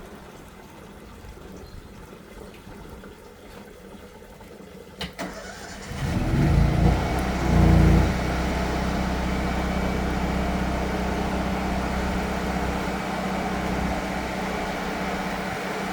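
Drain jetter's engine starting: a sharp click, then about two seconds later the engine catches, revs up loudly for a couple of seconds and settles into a steady run.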